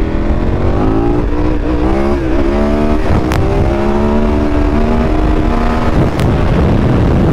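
Adventure motorcycle engine pulling hard under throttle in third gear as the front wheel lifts into a wheelie, its pitch climbing steadily. The engine note drops away about six seconds in, leaving wind rushing over the helmet.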